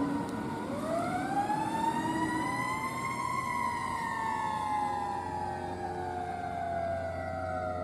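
Fire truck siren wailing: its pitch rises over about two and a half seconds, then falls slowly through the rest.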